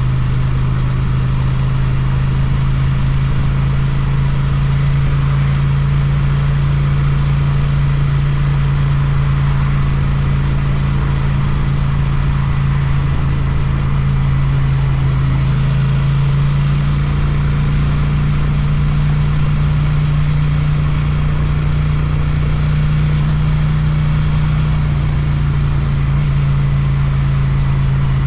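Suzuki motorcycle engine running through an Akrapovic exhaust at steady revs, its pitch stepping up slightly about two-thirds of the way through.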